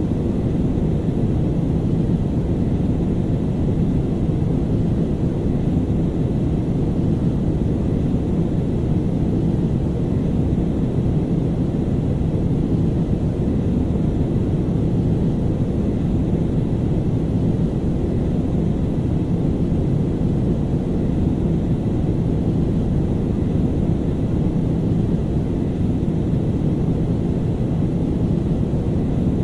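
Airplane cabin noise in flight: a steady low drone of engines and rushing air heard from inside the cabin, unchanging throughout.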